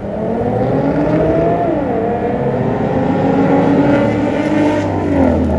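Car engine revving loudly under acceleration, its pitch climbing, dropping sharply about two seconds in as at a gear change, then climbing again before falling away near the end.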